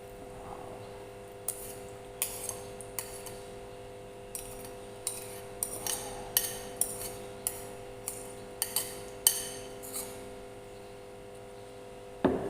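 A serving spoon clinking and scraping against a plate and dish in an irregular run of short clinks while food is scooped out, with one heavier knock near the end. A steady low hum runs underneath.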